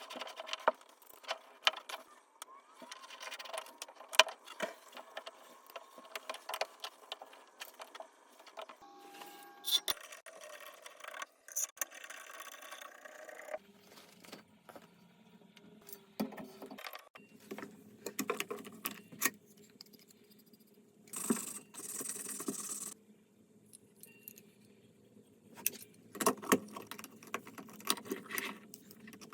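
Irregular metallic clinks, knocks and scrapes of hand work with tools and plumbing parts.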